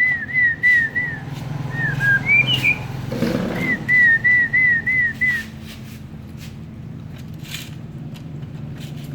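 Short whistled notes near one pitch, each slurred, repeated about three times a second in two runs, with a few higher rising notes between them and a brief rustle about three seconds in.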